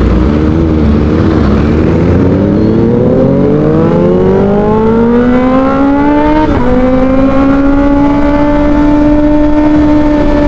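Kawasaki ZX-25R's 250 cc inline-four with an Arrow Pro Race exhaust accelerating hard under way. The pitch climbs for several seconds, then drops sharply on an upshift about two-thirds of the way in, with a brief pop from the exhaust, and climbs again more slowly.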